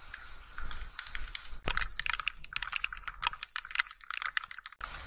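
Raindrops tapping irregularly on the tent. The taps are sparse at first, thicken into a dense patter about two seconds in, and cut off abruptly near the end.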